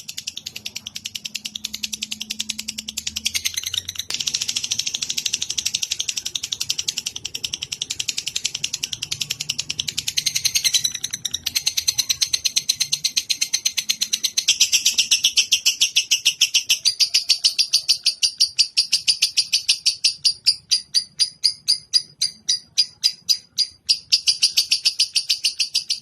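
Recorded small-bird song for tutoring cage songbirds: a long, fast, high-pitched chattering trill of rapidly repeated notes. Its rhythm loosens in the second half into separate, evenly spaced notes, then runs fast again near the end.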